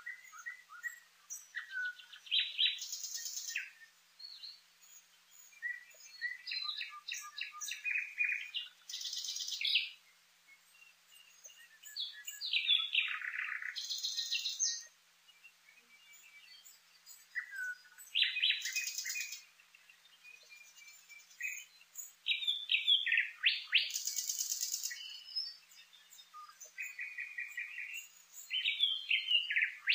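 Nightingale singing: phrases a few seconds long, separated by short pauses, made of rapid repeated notes, whistles and dense rattling trills.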